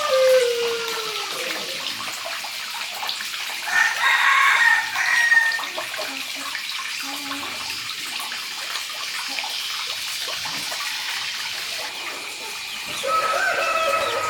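Rooster crowing: the falling tail of one crow in the first two seconds, another shorter call about four seconds in, and a new crow starting near the end, over a steady high hiss.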